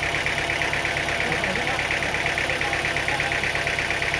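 An engine running steadily at idle, with an even, rapid pulse of about a dozen beats a second.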